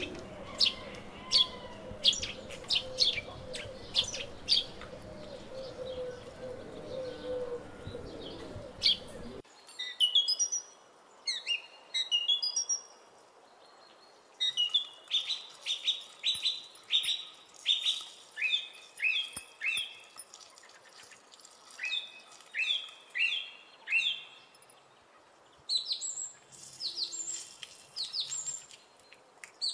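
Small birds chirping over and over, quick falling chirps in runs of several. A low steady hum sits under them and stops suddenly about nine seconds in.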